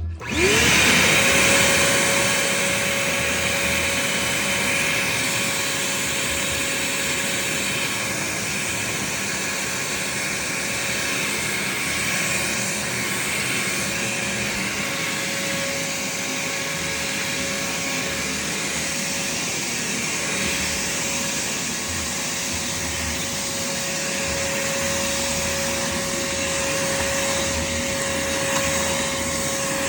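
Craftsman shop vac switched on, its motor whining up to speed in the first second, then running steadily: a constant whine over rushing air.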